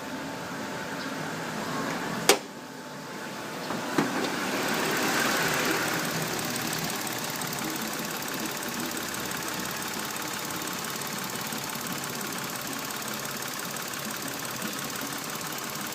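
Mitsubishi Mirage's three-cylinder engine idling steadily, the annoying engine noise the owner wants to show. A sharp click about two seconds in, a smaller one near four seconds, then the sound swells briefly before settling.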